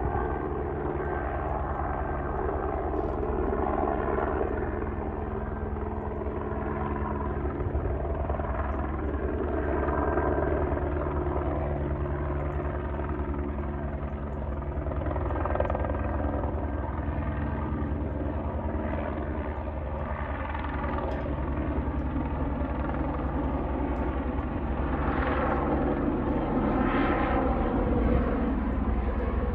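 Airbus H125 police helicopter flying overhead, its single turbine engine and main rotor running steadily, the sound swelling and fading a few times as it passes.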